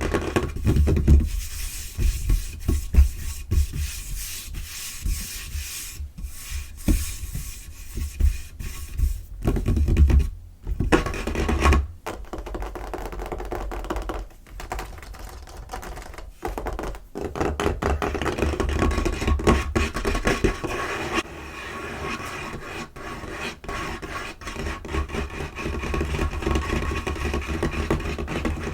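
Fingers scratching, scurrying and tapping fast on a tabletop, recorded close up: a dense run of quick scrapes and rubs with dull thuds, broken by a brief pause about ten seconds in and again around seventeen seconds.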